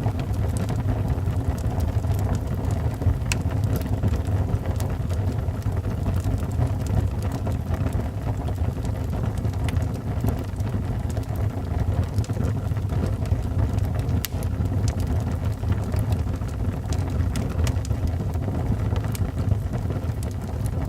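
Wood burning in a fireplace: a steady low rumble of the fire with scattered sharp crackles and pops.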